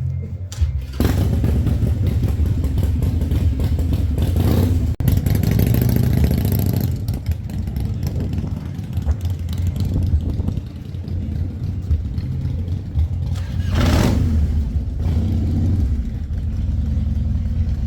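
A loud vehicle engine running with a deep, steady rumble, surging twice as it is revved.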